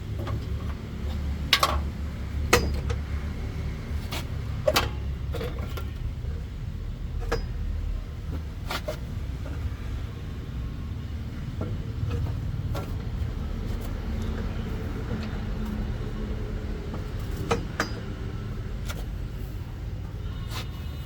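A steady low engine rumble, with sharp clinks and knocks here and there.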